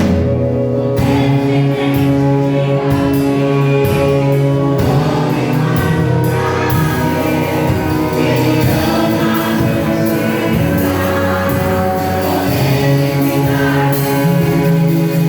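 Congregational gospel praise music: singers with band accompaniment, sustained bass and chords under the voices.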